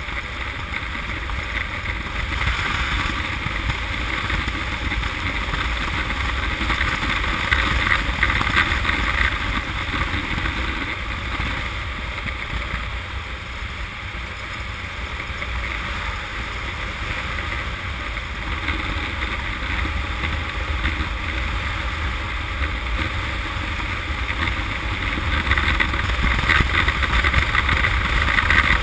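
Steady wind rush and rumble over a motorcycle-mounted camera, with the Honda CM200T's small air-cooled parallel-twin engine running underneath as it rides. The noise swells about eight seconds in and again near the end.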